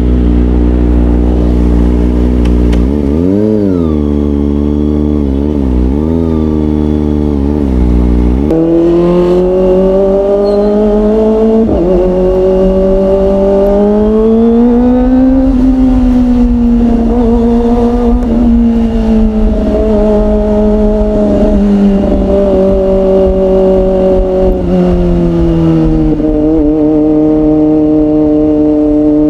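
Kawasaki ZX-25R's 250 cc inline-four engine through an Orion aftermarket exhaust, under way. For the first eight seconds the revs rise and fall in short blips over a deep rumble. Then the note steps up into a steadier, higher pitch that swells and sags slowly with the throttle, drops off near the end and climbs again.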